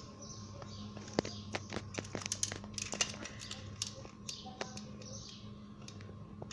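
A quick run of light clicks and small taps, like parts and tools being handled during the boiler repair, over a steady low hum.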